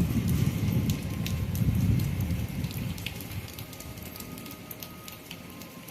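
Heavy rain falling, with sharp drop ticks and a steady hiss, under a low rumble of thunder that dies away over the first three seconds.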